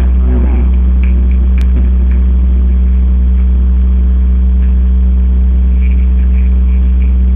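A loud, steady low mechanical hum that does not change, with a brief click about one and a half seconds in.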